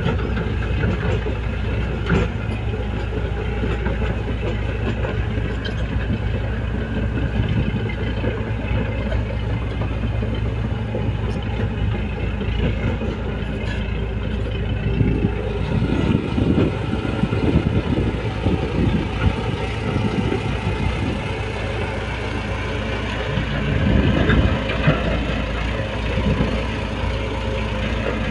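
Shantui bulldozer's diesel engine running steadily, with louder, rougher stretches about halfway through and again near the end.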